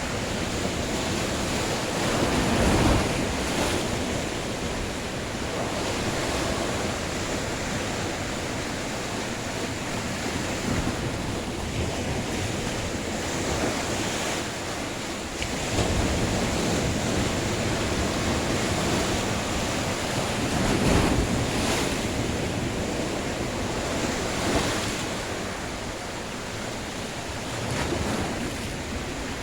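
Sea waves washing onto the shore: a continuous surf that swells louder every few seconds as waves break, with wind rumbling on the microphone.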